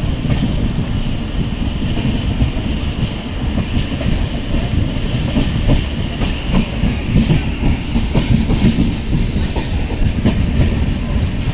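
A train running past on the line, a steady heavy rumble with many short knocks from wheels passing over rail joints.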